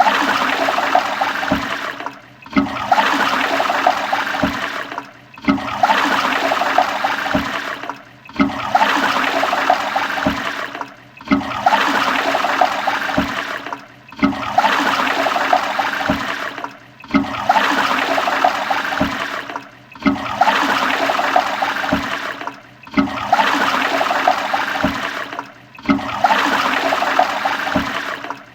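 Toilet flushing: a rush of water that cuts out briefly and starts again about every three seconds, the same flush repeating over and over.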